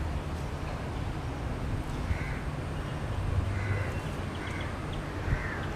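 Several short bird calls, one after another from about two seconds in, over a steady low rumble.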